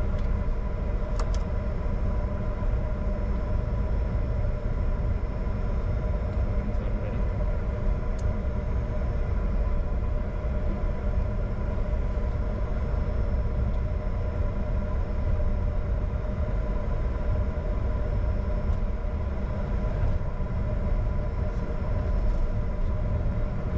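Steady cockpit noise of a Bombardier Challenger 605 with its GE CF34 turbofans at idle: a constant low rumble with several steady whining tones above it, unchanging in level.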